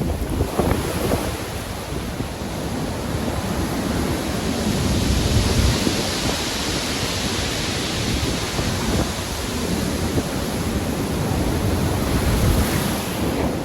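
Stormy sea: heavy surf with waves breaking and washing, under a constant low rumble and wind. A wave builds to a loud hiss about five to eight seconds in, then eases.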